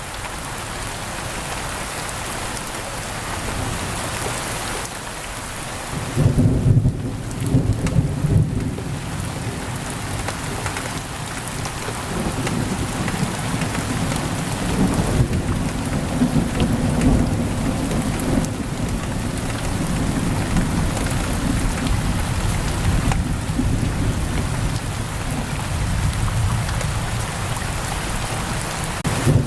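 Steady pouring rain, with rolling thunder rumbling in about six seconds in and continuing in waves to the end.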